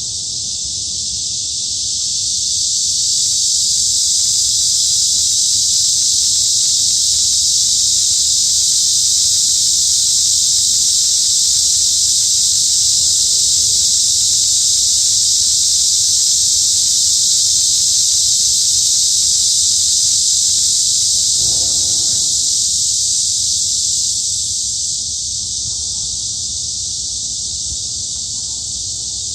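A chorus of cicadas buzzing in one continuous high, steady drone that swells a few seconds in and eases off near the end.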